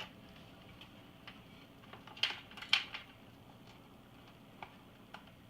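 Small clicks and knocks of parts and tools being handled, with two sharper knocks about half a second apart in the middle and a couple of faint ticks near the end, over a low steady hum.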